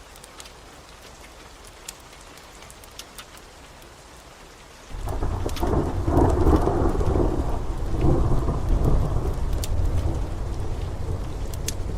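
Steady rain with scattered sharp pops of a crackling wood fire. About five seconds in, a loud rumble of thunder starts suddenly and keeps rolling, swelling and easing.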